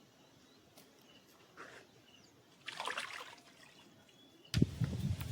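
A short splash and trickle of water about three seconds in; a sudden low rumble starts near the end.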